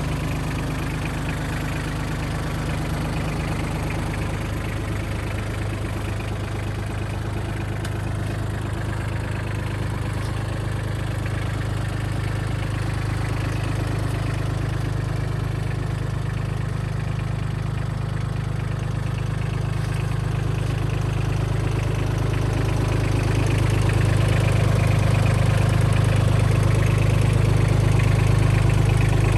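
Mitsubishi MRT-18 compact crawler tractor engine idling steadily, getting a little louder in the last several seconds.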